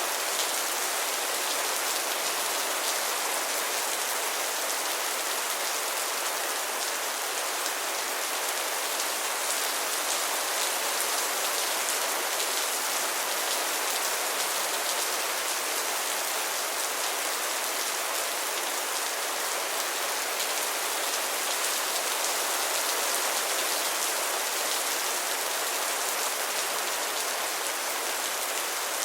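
Heavy rain falling in a steady, even downpour with no let-up.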